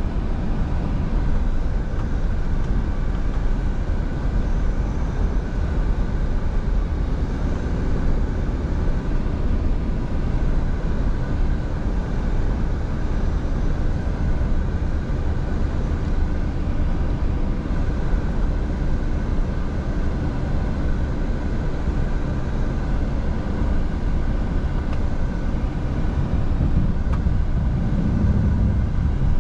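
Scania V8 diesel truck engine running steadily while driving, with a continuous low rumble and road noise.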